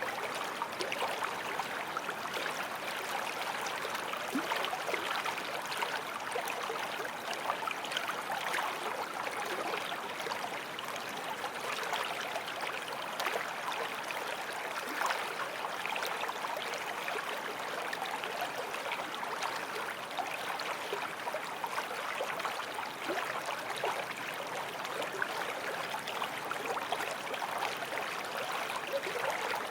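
Forest stream flowing over stones: steady rushing and babbling water with fine splashing.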